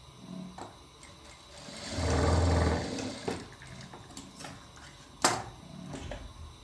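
A sewing machine running in one short burst of about a second, followed by scattered light clicks and one sharp click.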